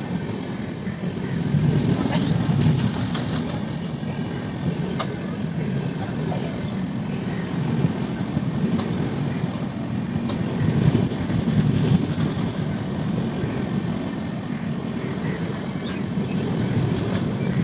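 Passenger coaches of an express train rolling past close by at speed: a steady, loud rumble of steel wheels on the rails, with occasional sharp clicks from the wheels and track.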